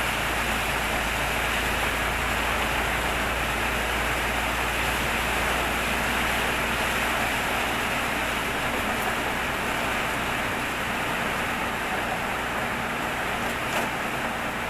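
Heavy storm rain falling in a steady, dense hiss with a low rumble underneath, easing slightly near the end.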